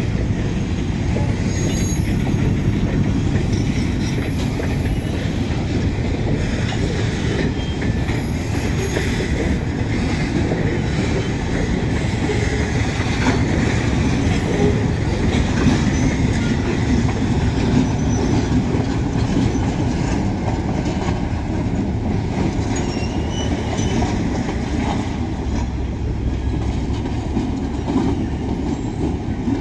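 Freight train of boxcars and tank cars rolling past, its steel wheels clattering steadily on the rails, with faint intermittent wheel squeal.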